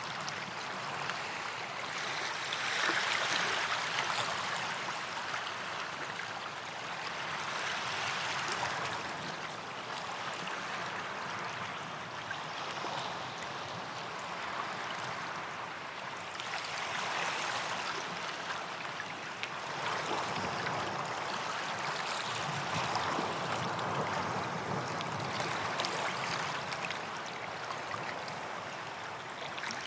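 Sea waves washing onto a beach, the wash swelling and fading every five to six seconds.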